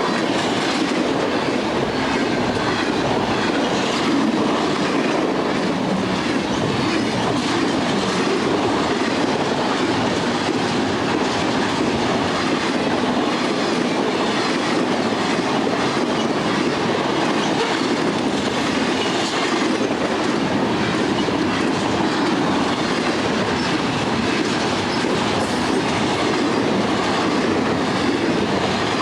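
Train cars rolling steadily past, their wheels clacking over the rail joints with a continuous rumble of rolling stock.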